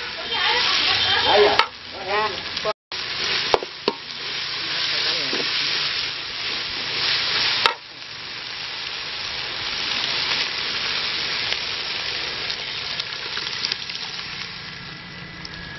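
Onions, green chillies and tomatoes sizzling as they fry in oil in a wide metal pan, stirred with a metal spatula that scrapes across the pan. A few sharp clicks come in the first half.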